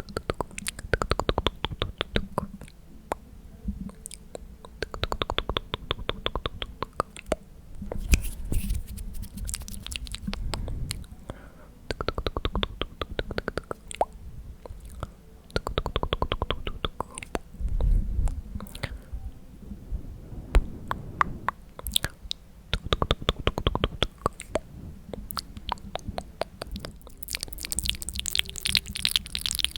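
Close-miked ASMR mouth sounds: rapid wet tongue and lip clicks ('tk tk') in bursts of a second or two, again and again, mixed with unintelligible whispering.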